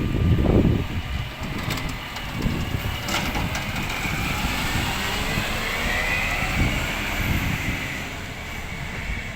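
Rubbish truck running, with heavy low knocks near the start and a few sharp clicks. A high whine rises and falls through the middle.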